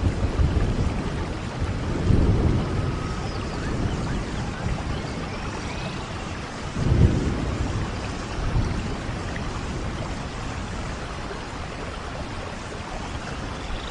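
Steady rain falling, with low rumbles of thunder swelling about two seconds in and again, loudest, about seven seconds in.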